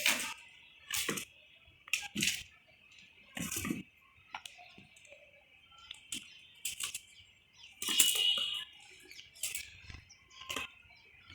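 Young cats playing: irregular scuffles, thumps and rustles from paws and bodies pouncing and scrambling, about one burst a second, the loudest about eight seconds in. A faint steady high hiss runs underneath.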